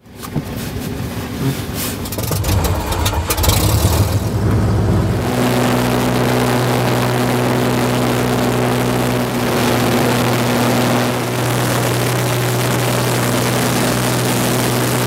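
Light aircraft's piston engine running, its note uneven and changing for about the first five seconds, then settling into a loud, steady drone.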